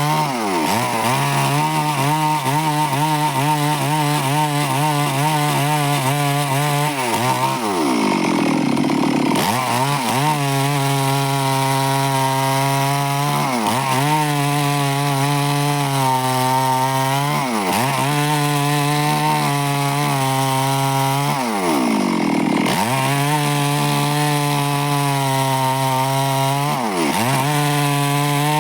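Stihl chainsaw running at high revs as it cuts through wood, its engine note dropping sharply in pitch and climbing back about every four to five seconds, twice for a longer moment.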